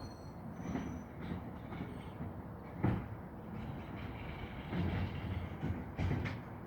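Garbage truck running with a steady low engine rumble and a few metallic clanks and knocks. The loudest knock comes about three seconds in, and two more come close together near the end.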